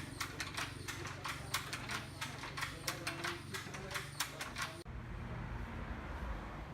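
A steady run of sharp clops or clicks, about three or four a second, over a low background rumble. About five seconds in the clopping cuts off abruptly and only a steady low rumble remains.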